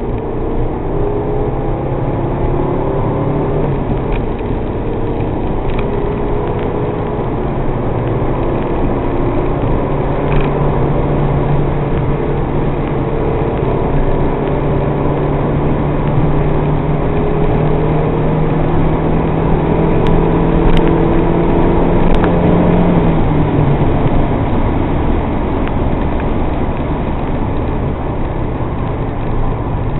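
MG TF sports car's engine running hard at track speed, heard from inside the cabin over road and wind noise. Its pitch climbs slowly for several seconds, then drops suddenly about three-quarters of the way through.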